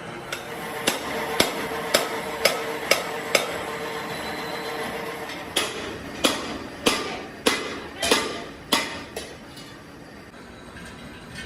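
Hammer striking metal in two runs of about six blows each, roughly two blows a second, each blow ringing briefly.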